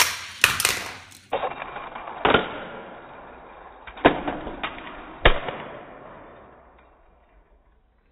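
Hot Wheels Track Builder Rocket Launcher firing with sharp plastic snaps, then die-cast toy cars clattering along plastic track with several sharp knocks. The clatter fades out.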